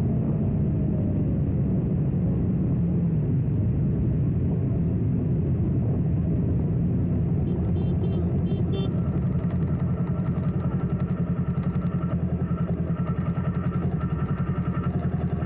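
Honda CBR1000RR sportbike's inline-four engine running at low road speed, with wind and road noise. Its note settles into a slower, throbbing beat near the end.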